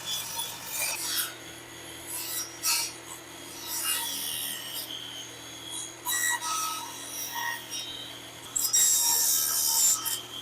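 A power saw with its blade set shallow is cutting a rabbet groove into a wooden hive-box board. The wood rasps and scrapes irregularly over a steady motor hum that starts about a second in. The scratchiest, loudest stretch comes near the end.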